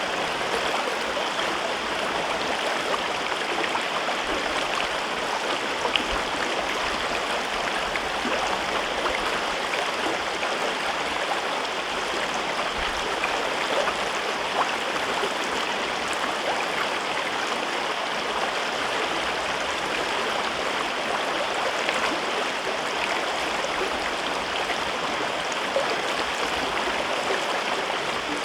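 A mountain river rushing and babbling over rocks in a steady, unbroken flow, with a few small splashes standing out now and then.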